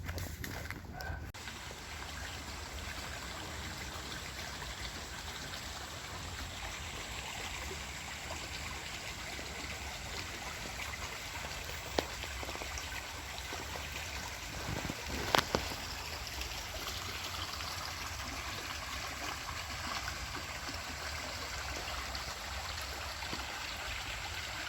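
Stream water running steadily, with a sharp click about halfway through and another a few seconds later.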